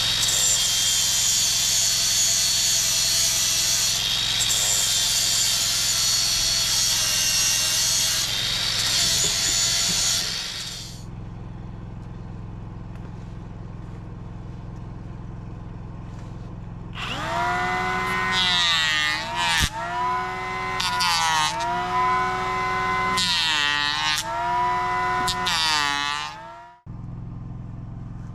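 Chainsaw cutting wood for about ten seconds. After a quieter stretch it cuts again, its engine pitch dipping and recovering several times under load, before stopping abruptly near the end. A steady low hum runs underneath throughout.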